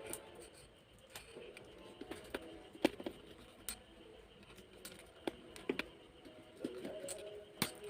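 Irregular light clicks and taps of hands handling the small parts of a homemade DC-motor fan as the motor is seated and secured in its pipe.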